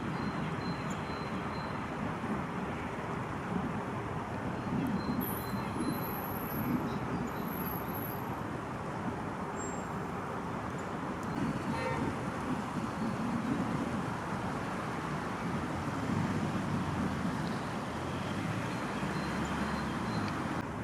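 Steady urban road-traffic noise, with a few faint high-pitched bird calls about five to eight seconds in.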